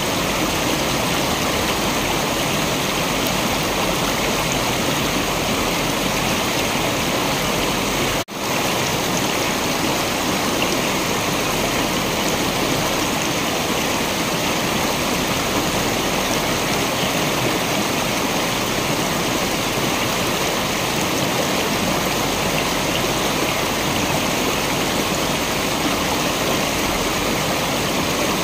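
Waterfall: a steady, even rush of falling water, broken by a split-second dropout about eight seconds in.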